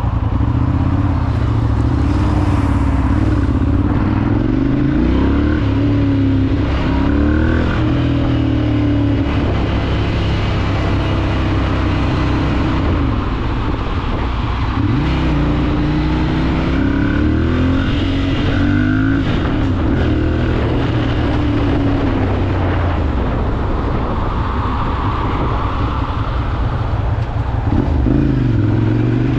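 Ducati Monster 796's air-cooled L-twin engine under way, its pitch climbing as it accelerates and dropping back at each gear change or roll-off, several times over.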